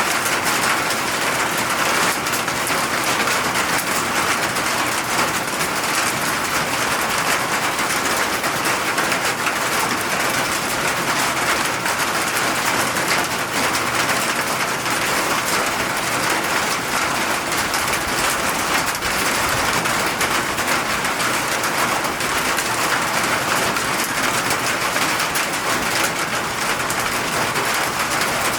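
Steady rain falling, an even hiss of drops on surfaces that keeps up without a break.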